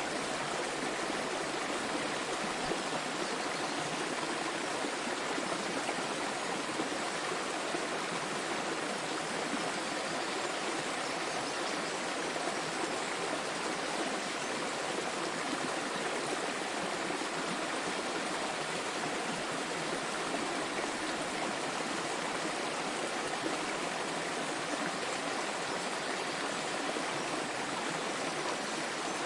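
Small waterfall splashing and flowing steadily, an even rush of water with no change.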